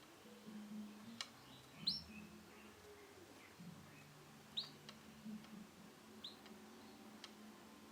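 Male canary giving a few short, high chirps a couple of seconds apart, each sliding down in pitch, with several sharp ticks in between.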